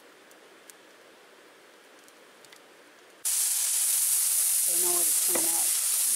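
Hamburger patties sizzling on a flat-top griddle, a loud steady hiss that starts abruptly about three seconds in. Before it there is only faint outdoor background with a few light ticks. Under the sizzle a voice sounds briefly around five seconds in.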